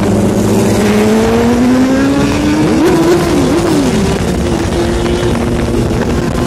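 Motorcycle engine running under way with wind rush, its pitch rising steadily over the first few seconds as it accelerates. About three seconds in, a few short engine notes swoop up and down over it.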